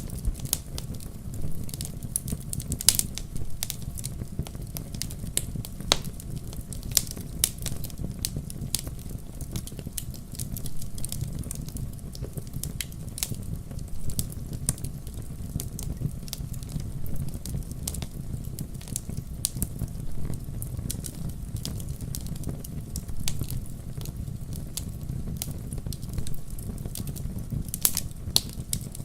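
Wood fire burning in a fireplace: a low steady rumble of the flames with irregular crackles and pops, a few of them sharper and louder.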